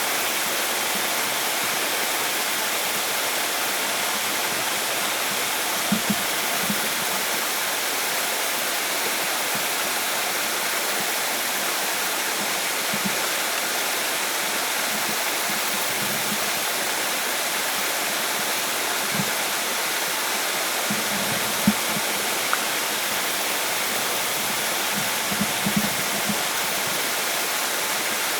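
Steady rushing of flowing water, like a stream or small waterfall, with a few soft low knocks scattered through it.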